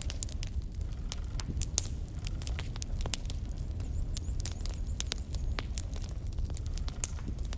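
Wood fire burning in a fireplace: logs crackling and popping in frequent, irregular sharp snaps over a steady low rumble of the flames.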